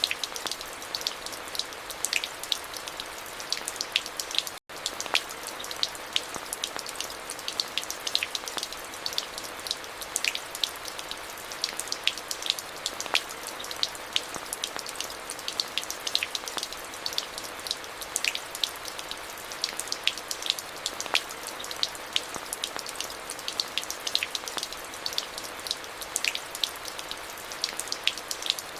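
Steady rain falling: an even hiss with many sharp, close drop ticks scattered through it. The sound cuts out for a split second about five seconds in.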